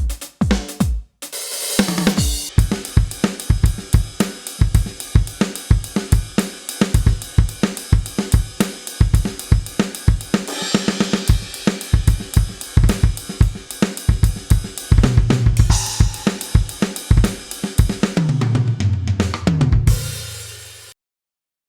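KAT Percussion KT4 electronic drum kit playing one of its built-in kits: a steady groove of kick, snare, hi-hat and cymbals after a brief pause about a second in. It ends in a fill that steps down the toms and then stops abruptly.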